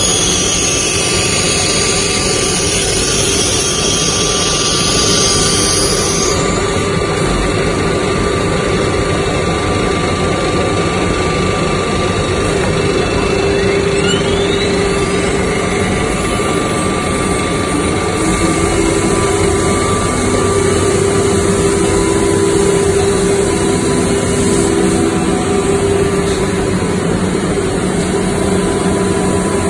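SUDIAO automatic-tool-changer CNC router running on aluminium panels: steady machine noise with a high whine. A hiss stops about six seconds in, and a rising whine sweeps up around the middle.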